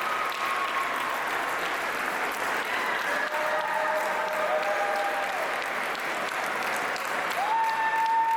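A crowd applauding steadily, with a few long held calls rising over the clapping, the clearest one near the end.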